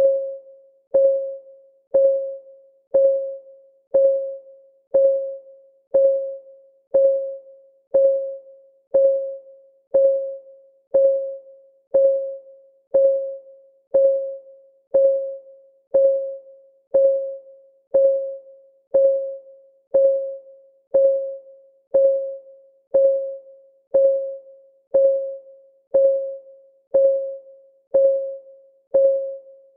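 Clock ticking sound of a countdown timer: a short, slightly pitched tick exactly once a second, each ringing briefly and followed by a fainter echo.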